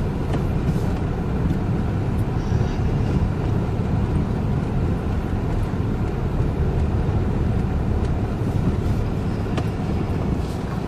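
Vehicle driving slowly along a muddy track: a steady engine and tyre rumble with no clear knocks or changes.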